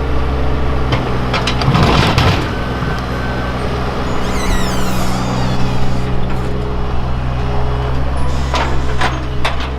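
Heavy demolition machine's engine running steadily, with cracking and crashing as the mobile home's structure is torn apart about two seconds in and again near the end. A high squeal falls in pitch about four seconds in.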